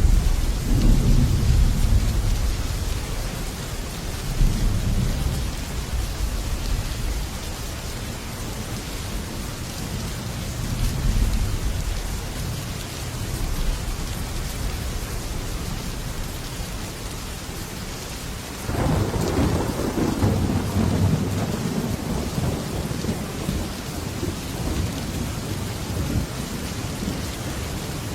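Heavy rain falling steadily on a metal roof, with thunder. A long, deep rumble rolls through the first few seconds and swells again now and then. About two-thirds of the way through a sharper clap breaks and rolls on for several seconds.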